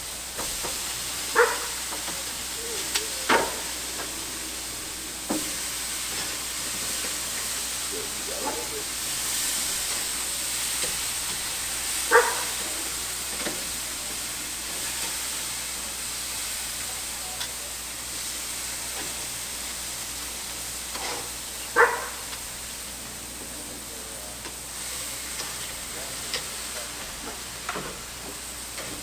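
Pork chops sizzling steadily on the grate of a charcoal grill directly over hot coals, with a few short sharp knocks or clacks spaced several seconds apart.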